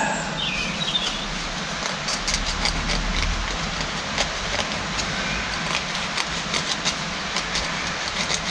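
Hand work at a bench on hydraulic pump parts being cleaned: irregular light ticks and clicks of small metal parts handled and wiped, over a steady hiss.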